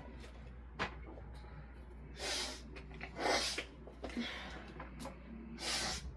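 A woman sniffing noisily through her nose three times, each sniff about half a second long, with a light click before the first.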